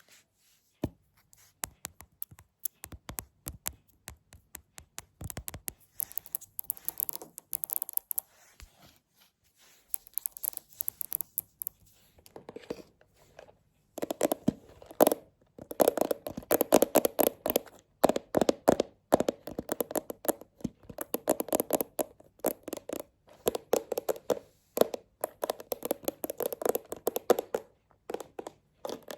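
Close-up knocking and tapping right at the microphone: scattered single knocks at first, then fast, dense runs of tapping from about halfway, broken by short pauses.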